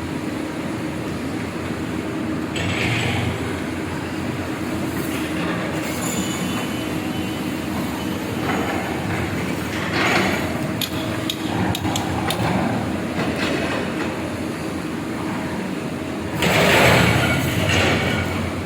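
Backhoe excavator's diesel engine running steadily while digging, with metallic clanks and knocks from the bucket and boom, and a louder scraping clatter near the end.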